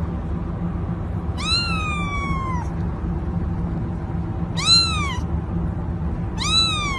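A cat meowing three times: one long drawn-out meow followed by two shorter ones, each rising and then falling in pitch.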